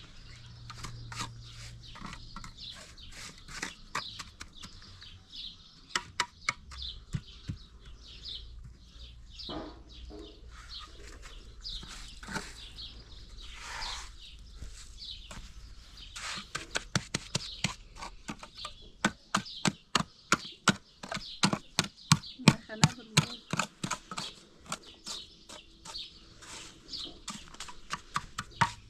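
Scattered clicks and high chirping calls, then, from about two-thirds of the way in, a steady run of sharp knocks at about three a second that grows louder.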